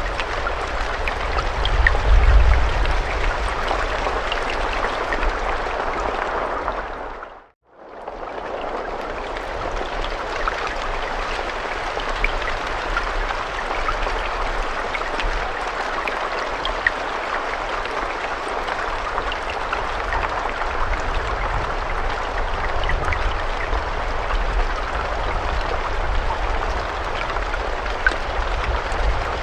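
Steady rain falling, a constant hiss with scattered individual drops and a low rumble underneath. About seven seconds in it fades quickly to silence and fades straight back in, as at the join of a looped recording.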